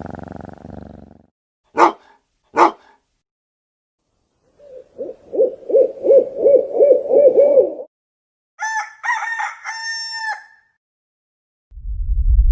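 Separate sound-effect clips in a row. Two sharp knocks about a second apart, then a run of quick low calls at about three a second, then a rooster crowing in three linked parts. A deep rumbling boom starts just before the end.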